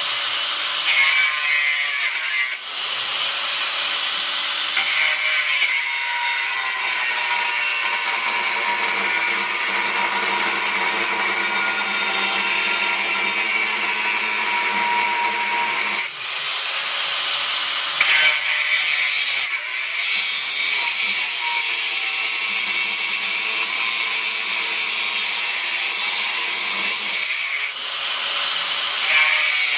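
A power tool working on steel plate, running continuously with a high, hissing tone and brief changes in load a few times.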